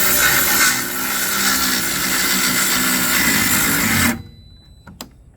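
Cordless power saw running and cutting through a wooden board, then stopping suddenly about four seconds in. The tool quits mid-cut, which the user puts down to the battery.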